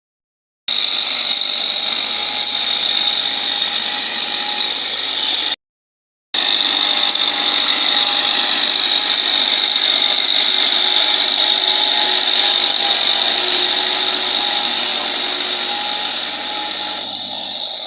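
Tractor engine running steadily under a loud, continuous metallic rattle and whine from the working machinery, cut off for under a second about five and a half seconds in.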